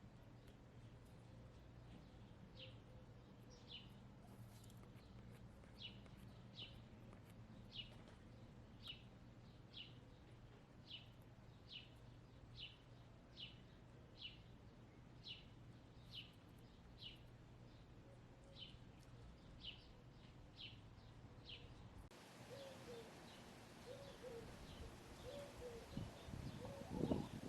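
A wild songbird repeating a short, falling high chirp about once a second, faint over a low steady hum. About three-quarters of the way through the background changes and soft low calls of hens come in, with a few louder knocks near the end.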